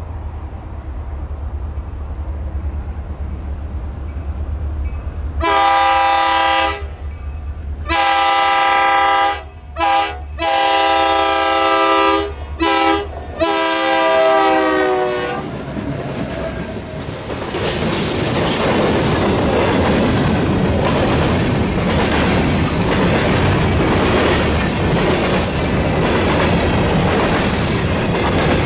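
A train approaches with a low rumble, then its locomotive air horn sounds a chord in a series of long and short blasts, the pitch dropping on the last blast as it passes. The train then goes by with steady wheel and rail noise and clickety-clack.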